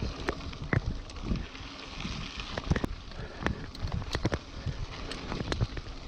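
Wind buffeting the microphone during a bicycle ride, with a low rumble and many irregular sharp clicks and knocks.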